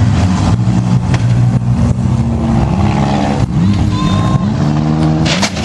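Several four-cylinder demolition derby cars revving at once, their engine notes rising and falling over one another, with a few hard crashes as cars hit each other, the last ones near the end.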